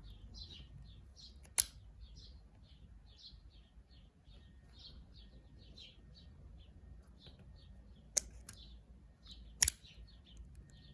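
A bird chirping steadily, about three short high chirps a second, over a low rumble, with three sharp clicks cutting in.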